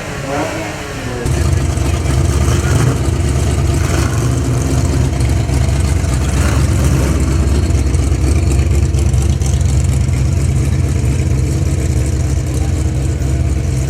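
Car engine idling with a steady, loud low exhaust rumble that comes in abruptly about a second in.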